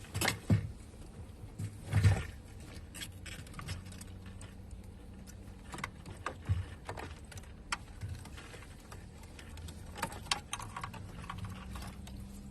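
Scattered knocks, clicks and light clinks of hand work on car parts, with two louder knocks in the first two seconds, over a steady low hum.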